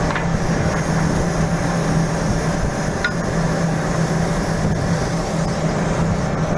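Steady machinery drone with a constant low hum, and a couple of faint clicks.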